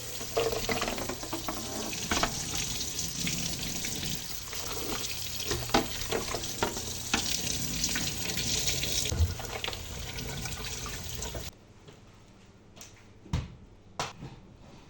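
Water running from a tap into a sink while things are washed, with frequent small knocks and clatters. About eleven and a half seconds in the water stops, leaving a few quiet knocks.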